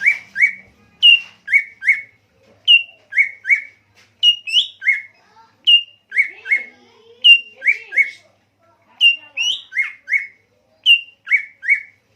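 A songbird repeating a short whistled phrase about every one and a half seconds: one higher note followed by two quick, lower, down-slurred notes.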